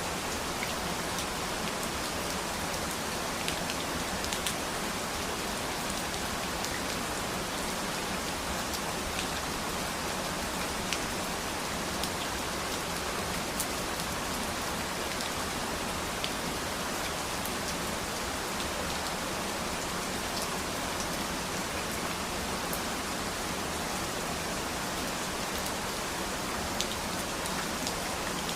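Steady rain falling, an even hiss with the sharp ticks of single drops landing here and there.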